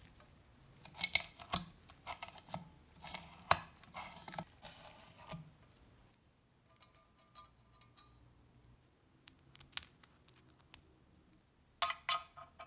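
Small hard parts clicking and clinking as they are handled, with some light scraping. The clicks come in a busy run through the first half, turn sparse in the middle, and return in a short cluster near the end.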